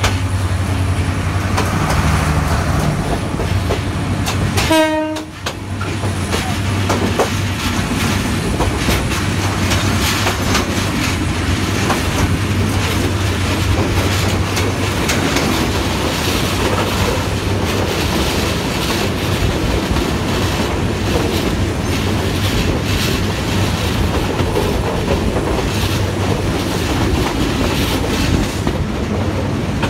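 Passenger trains running past each other on adjacent tracks, heard up close from an open coach door: a steady rumble with the clickety-clack of wheels over rail joints. A short horn toot sounds about five seconds in.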